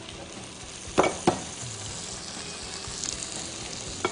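Sofrito sizzling in a red enamelled cast-iron pot as chopped tomatoes are spooned in, with a spoon knocking twice about a second in and once more near the end.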